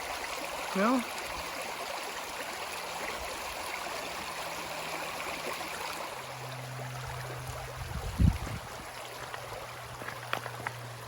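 A river's water running steadily over its bed, an even rushing. A single dull thump stands out about eight seconds in, with a couple of faint ticks near the end.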